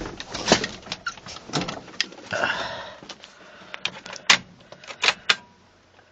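A string of sharp clicks and knocks from handling something, with a short scraping rustle about two and a half seconds in, dying away near the end.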